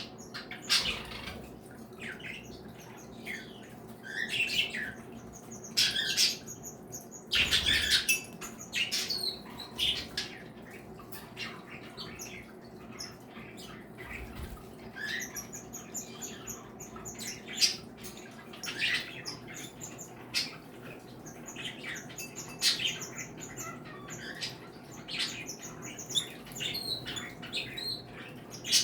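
Mixed flock of pet cage birds (budgerigars, cockatiels, Bourke's parakeets, canaries and java sparrows) calling at once: many short overlapping chirps, whistles and squawks, with a louder harsh burst about seven to eight seconds in.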